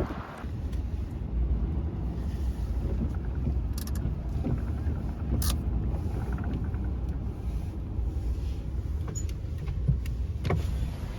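Steady low rumble of a vehicle driving, with a few faint clicks.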